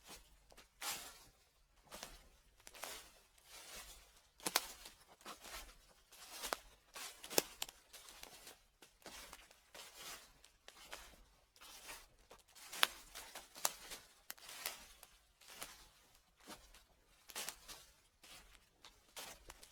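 Dry fallen leaves crunching and crackling underfoot in slow, uneven footsteps, a crunch every second or so.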